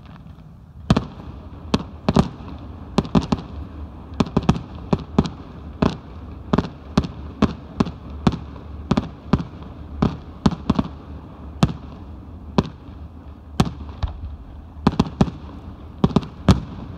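Aerial fireworks going off: a rapid, irregular string of sharp bangs from shells bursting, starting about a second in and coming often about two a second.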